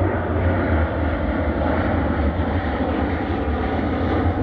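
Airplane passing overhead: a steady, loud engine roar with a deep rumble underneath, holding level throughout.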